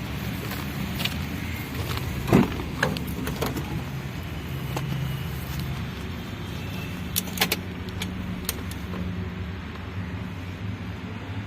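A vehicle engine running steadily with a low hum. Sharp clicks and knocks rise over it, the loudest a thump about two seconds in and a quick cluster of clicks a little past the middle.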